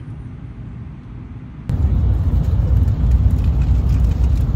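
Shinkansen bullet train running, heard inside the passenger cabin: a steady low rumble that jumps suddenly louder about a second and a half in, with more hiss over the rumble.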